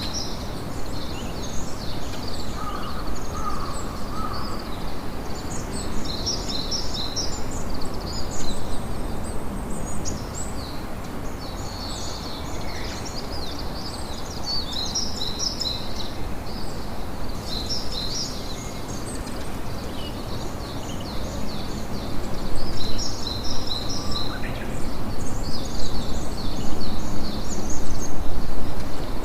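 Campfire crackling and popping steadily, with small birds chirping in quick clusters of high notes throughout. The fire grows a little louder in the last several seconds.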